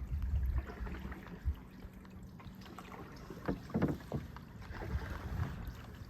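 Paddles dipping and splashing in the water as a small paddled boat moves along, with a few sharp knocks around the middle. Wind buffets the microphone near the start.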